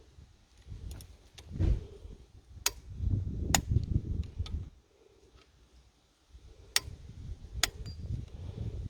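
A click-type torque wrench set to 5 Nm on the diesel injector clamp bolts. It gives sharp metallic clicks about half a dozen times, spread unevenly, amid low knocks and rustle from the tool being handled.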